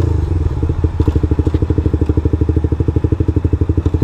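Suzuki GSX-R125's single-cylinder four-stroke engine idling with an even, fast pulse of about a dozen beats a second.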